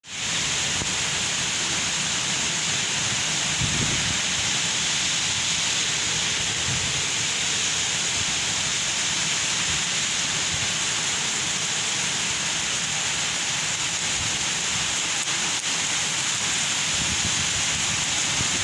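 Rain falling steadily, an even hiss that keeps the same level throughout.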